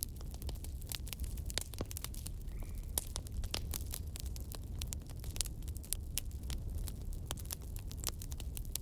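Crackling wood fire: frequent, irregular sharp pops and crackles over a steady low rumble.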